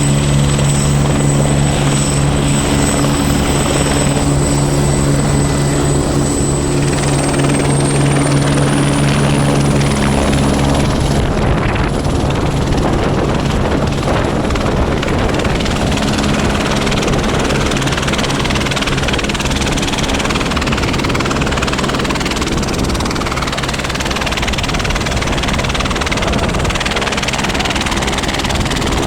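Helicopter running close by: a steady low hum with a high turbine whine that rises in pitch about seven to ten seconds in. Around ten seconds in the low hum gives way to a steady rushing noise.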